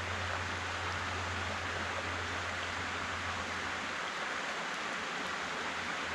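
River water running over a riffle: a steady rushing, with a low hum underneath that fades out after about four seconds.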